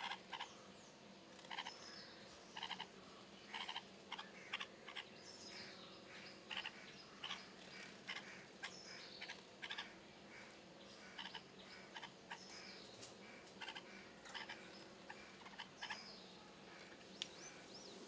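Faint outdoor birds chirping: short calls repeated irregularly, often two or three a second, with a few thin high whistles mixed in, over a steady low hum.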